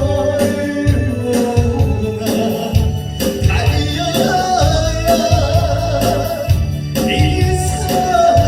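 A singer performing a Korean trot-style song over loud backing music with a steady beat.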